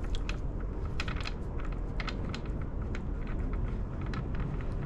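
Irregular light clicks and taps of small tools and parts being handled while opening up a RockShox Zeb fork's air spring, over a steady low background hum.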